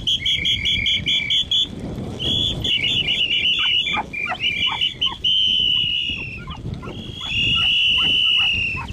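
Dog-training whistle blown shrilly, first in a quick run of short trilled toots, then in several longer blasts, the longest near the end. It is the cue for the bird-dog puppies to run.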